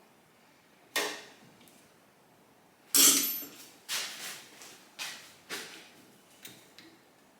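Workshop clatter of tools and metal parts being handled: a string of separate clanks and knocks, the loudest about three seconds in.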